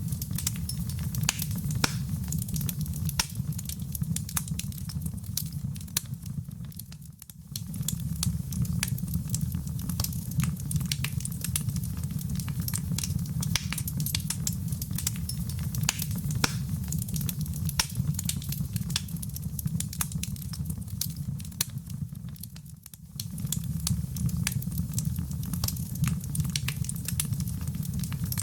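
Wood fire burning in a fireplace: a steady low rumble under a dense, irregular crackle of snaps and pops. The sound briefly fades and swells back twice.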